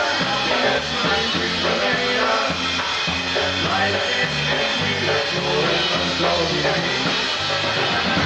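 A live polka band playing a tune, with a steady bass and beat under sustained melody notes and no voice standing out.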